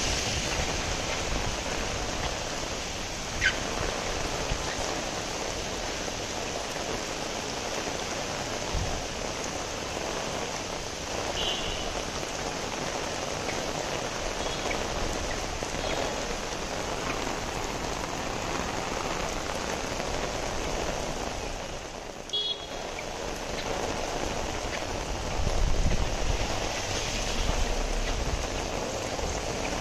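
Steady rain falling on a wet street and pavement, with a few sharp drips or clicks; a low rumble swells briefly near the end.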